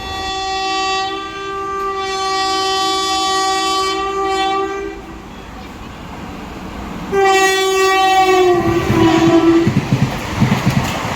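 Indian Railways express train sounding its horn in two long blasts as it approaches at speed, the second blast dropping in pitch as it passes. The wheels then clatter rhythmically over the rail joints as the train rushes by.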